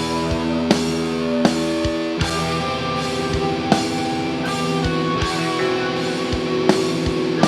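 Live progressive metal band playing, with sustained distorted electric guitars over drum kit hits and no vocals.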